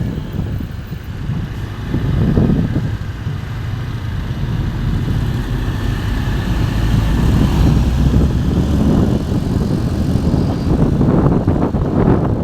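Low, steady vehicle engine rumble with wind buffeting the microphone, getting slightly louder after about two seconds.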